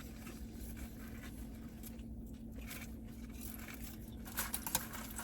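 Quiet eating and handling noises: faint rustling of food and wrappers, with a few small clicks near the end, over a steady low hum.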